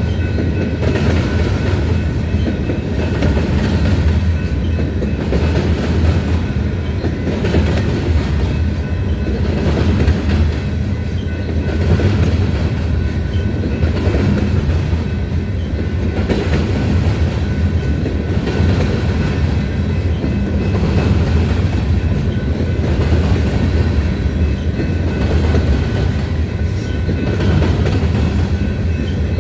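Freight train of grain hopper cars rolling past, a steady rumble of wheels on rail that never lets up.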